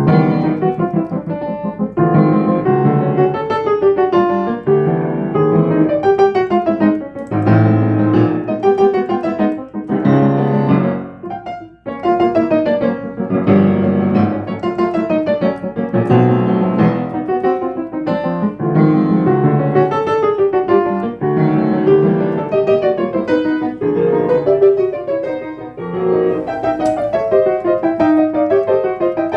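Acoustic piano, freshly tuned, regulated and repaired, playing a piece of flowing arpeggiated figures, with a brief break about twelve seconds in.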